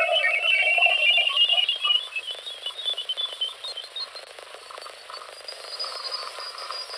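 Space plasma-wave recording from Jupiter's moon Ganymede, turned into sound: a dense patter of short electronic chirping tones that climbs steadily in pitch, loudest in the first two seconds and then fading.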